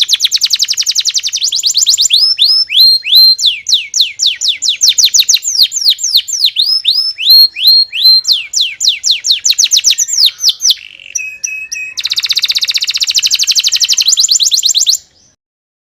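Domestic canary singing: long runs of quick, repeated downward-sweeping whistled notes, then a fast, dense trill, cutting off suddenly near the end.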